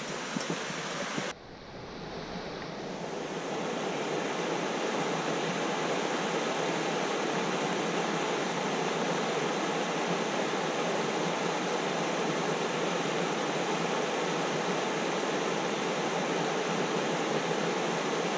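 Steady outdoor rushing noise, even and without distinct events, with an abrupt cut about a second in after which it builds back to a steady level.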